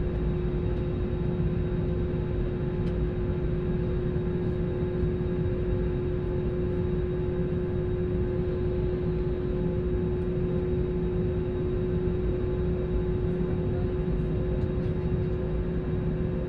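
Steady cabin noise of an airliner in flight: an even engine and airflow rumble with a constant hum running through it.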